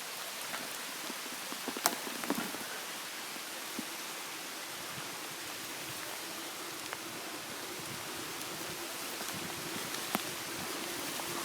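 Heavy rain falling steadily on tree leaves, an even hiss, with a few louder single drops landing close by about two seconds in and again near the end. A faint steady low hum joins about halfway through.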